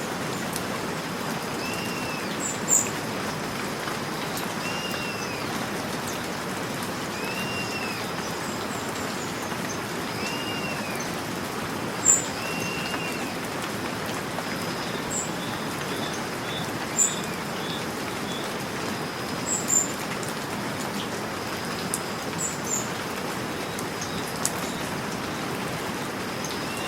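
Steady rain falling, with birds calling through it: a short arched call repeated every two to three seconds, and a few sharp high chirps that stand out as the loudest moments.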